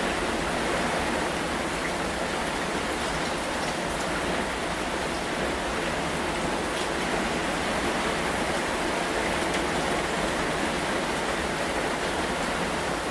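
Steady rain falling, an even hiss with a few single drops ticking sharply now and then.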